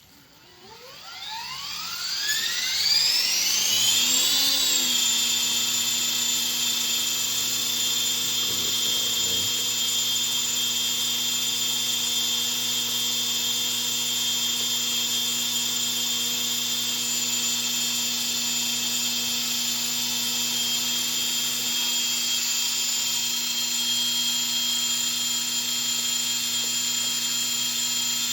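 Align 450L electric RC helicopter spooling up under its soft-start throttle setting: the motor whine rises smoothly in pitch over about four seconds, peaks briefly, then settles into a steady high-pitched whine as the rotor holds speed.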